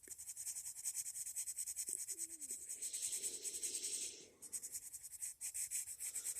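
Colored pencil shading on paper in rapid back-and-forth strokes, about eight a second, with a short pause a little past four seconds in.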